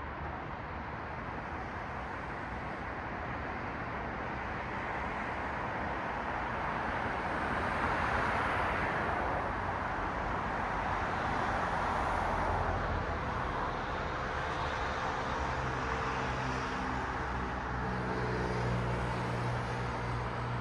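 Road traffic: cars passing with a rush of tyre noise that swells twice, about a third and again about halfway in. In the last third a low engine hum from a nearer vehicle comes in under the traffic.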